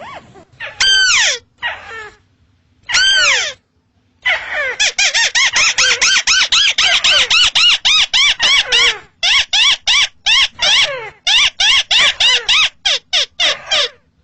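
Crake (burung tikusan) calling: two longer falling calls, then from about four seconds a rapid, steady run of short harsh arched notes, about four or five a second.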